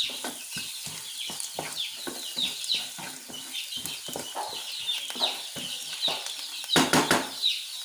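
A spoon scraping and stirring onions sautéing in oil in a pan, in quick repeated strokes, with a louder clatter near the end. Birds chirp in the background throughout.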